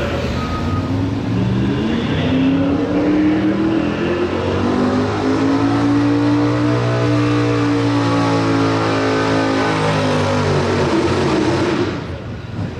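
Pro Street 4x4 pulling truck's engine running hard at high revs under load, its pitch climbing for several seconds and then sagging, before the sound drops away suddenly near the end.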